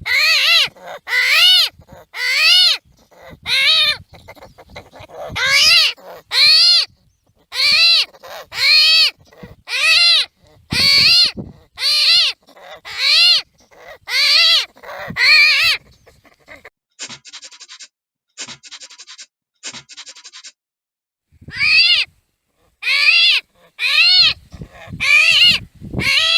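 An animal calling over and over in short, loud cries, each rising and then falling in pitch, about two a second. The calls stop for several seconds in the middle, when only a faint rapid clicking is heard, and then start again.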